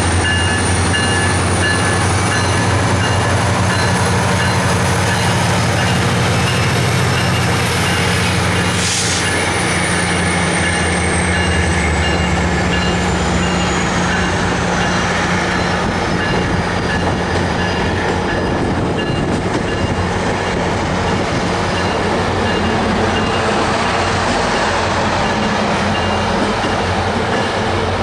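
MARC commuter train passing close by: the diesel locomotive's low engine drone fades out within the first dozen seconds as it pulls away, leaving the steady rolling noise of the passenger coaches' wheels on the rails. A high whine falls slowly in pitch from about eight seconds in, and there is a single sharp click shortly after.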